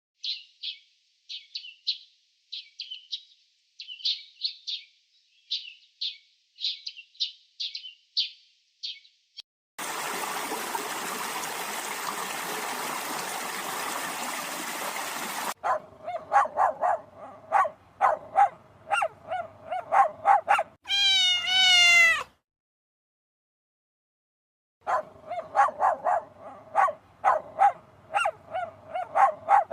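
A sequence of animal cries. First comes a run of short, high, rapid peeps. About ten seconds in they give way to some six seconds of steady hiss-like noise, then rapid yelping cries with a couple of drawn-out wavering calls, a pause of a few seconds, and more rapid yelping near the end.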